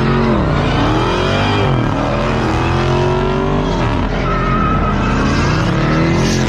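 Several car engines revving hard at once, their pitches rising and falling in overlapping sweeps, with a brief high squeal about four seconds in.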